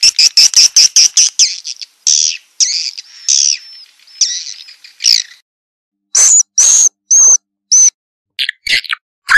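Swiftlet lure call, the twittering chirps of edible-nest swiftlets used to draw birds into a swiftlet house: a rapid run of high chittering for about two seconds, then slower separate chirps, a short pause, four brief whistled notes, and more twittering near the end.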